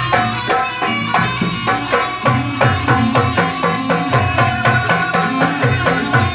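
Javanese gamelan music playing at a quick, steady beat: ringing metal bar and gong-chime notes over hand-drum (kendang) strokes.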